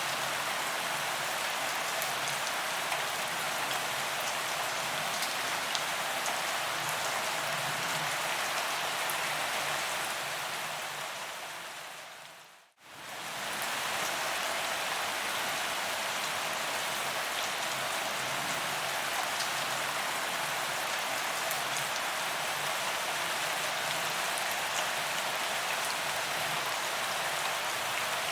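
Steady rain falling on a paved sidewalk, an even hiss with scattered sharp drop ticks. About twelve seconds in, the sound fades out to near silence for a moment and fades straight back in.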